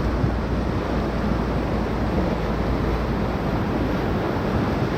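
Steady rush of whitewater from the river rapids around the raft, with wind rumbling on the microphone that eases off near the end.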